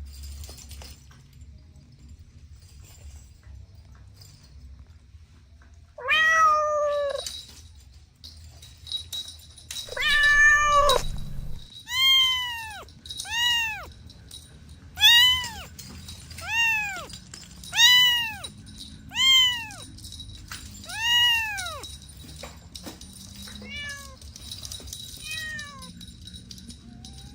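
Cats meowing: two longer meows, then a run of about eight short meows that rise and fall in pitch, roughly one and a half seconds apart, followed by two fainter ones near the end.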